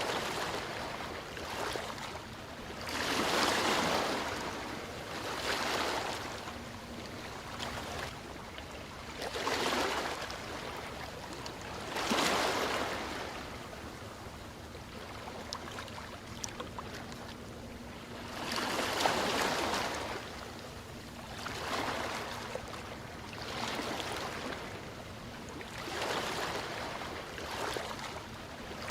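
Ocean waves washing on a shore, one wave about every two to three seconds, with a few small clicks in a quieter stretch about halfway through.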